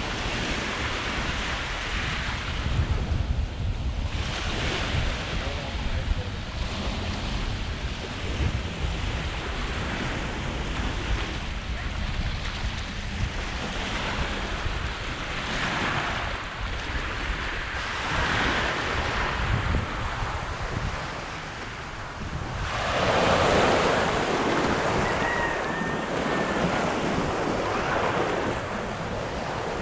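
Small waves breaking and washing up on a sandy beach, swelling every couple of seconds, with wind buffeting the microphone. A bigger wave surges in about 23 seconds in.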